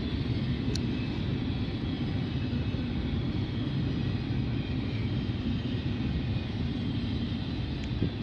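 Freight train's double-stack container cars rolling past on the rails: a steady low rumble of wheels on track, with a short click about a second in.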